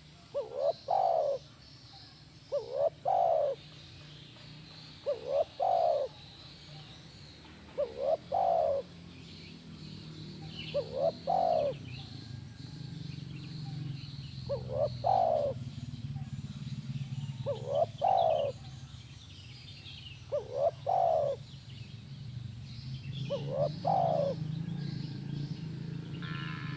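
Spotted dove (tekukur) cooing, the same short phrase of quick notes ending in a longer coo repeated about every two and a half seconds. Fainter chirps of other birds sound underneath, and a low hum grows louder about halfway through.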